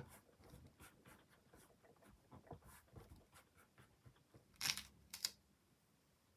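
Soft handling sounds of stamping with a stamping platform: faint scattered taps and rustles, then two louder short scuffs a little over four and a half seconds in.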